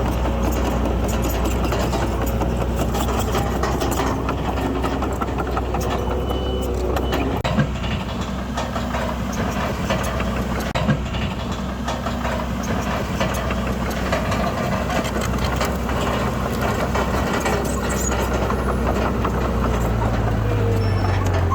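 Heavy diesel construction machinery running steadily under load, with two sharp metallic knocks about a third and half of the way through; a deeper engine note comes in near the end.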